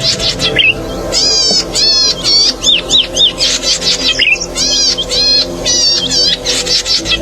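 Cici padi (prenjak sawah), a small rice-field warbler, singing: quick runs of sharp, buzzy arched chirps, several notes to a run, repeated with short breaks, over a faint steady low hum.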